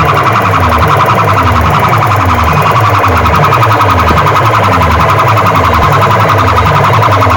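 Very loud DJ sound-box music played through a large outdoor speaker rig, distorted, with a repeating falling bass sweep about twice a second over pulsing deep bass and a steady shrill electronic tone, in the manner of a siren-like competition track.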